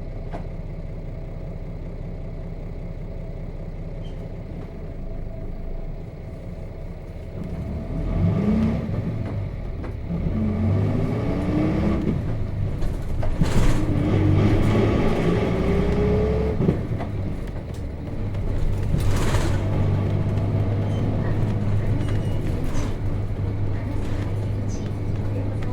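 Nissan Diesel KC-RM211GSN bus's FE6 inline-six diesel, heard from inside the bus: it idles steadily, then from about eight seconds in the engine note climbs three times with breaks between as the bus pulls away and is shifted up through the gears of its five-speed manual box, and settles into a steady cruise. Two brief noises cut in near the middle.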